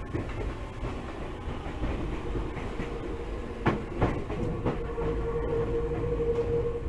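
Tokyu 8500 series electric train heard from inside the passenger car as it runs into its terminal station: a steady rumble of wheels on rail, with two sharp clacks about four seconds in as the wheels cross a rail joint or points. A steady humming tone sets in near the end.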